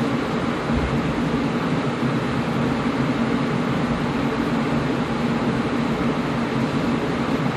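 Air conditioner running steadily: an even rush of blown air over a low, constant hum.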